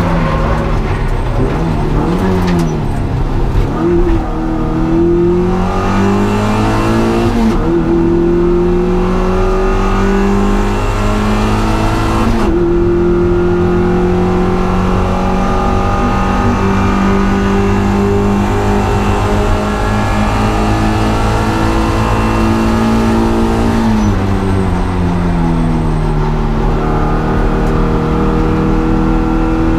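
Car engine being driven hard on a circuit. Its pitch climbs over several seconds as it pulls through the revs, holds fairly steady, drops about three quarters of the way through as the driver lifts off, then rises again near the end.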